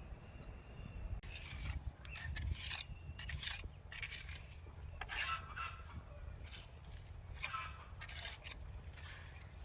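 Irregular series of short scraping strokes, about a dozen over several seconds, over a steady low rumble.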